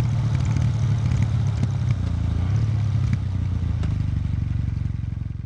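Kawasaki W800 Street's air-cooled parallel-twin engine running steadily at low revs through its stock exhaust, fading out near the end.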